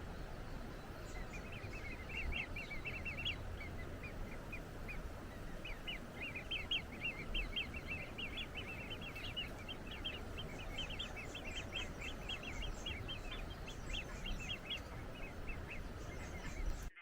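A bird singing rapid series of short, high chirping notes, several a second, with a brief pause about five seconds in, over a steady rushing background noise.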